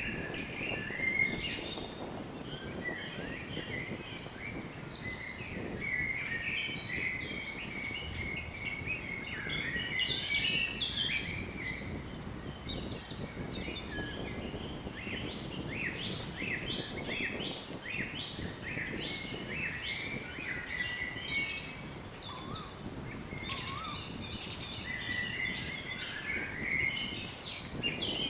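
Several songbirds singing and chirping continuously, short trills and quick repeated notes from more than one bird overlapping, over a steady low rush of wind.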